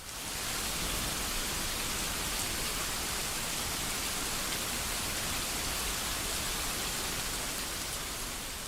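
Steady rain falling, an even hiss with a few faint drop ticks, easing slightly near the end.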